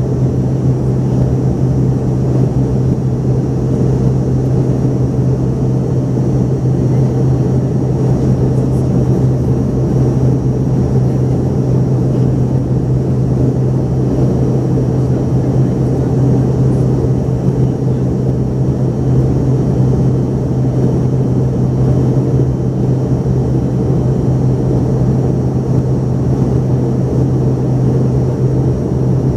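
Cabin noise of an Embraer ERJ-145XR regional jet in climb: the steady drone of its rear-mounted Rolls-Royce AE3007 turbofans and rushing airflow, with a strong low hum and a faint high whine, unchanging throughout.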